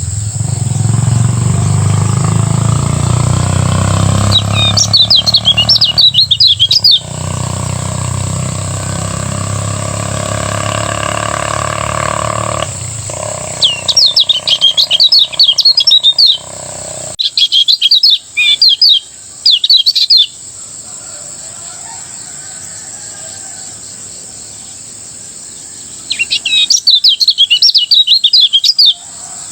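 Kecial kuning songbird singing its fast, chattering ngejos song in four bursts of rapid high chirps, each two to three seconds long. A low rumble fills the first twelve seconds and fades, and a steady high whine runs underneath.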